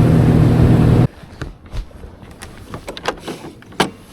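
Boat's outboard motor running steadily, cutting off abruptly about a second in. Then a scattering of short, light clicks and knocks.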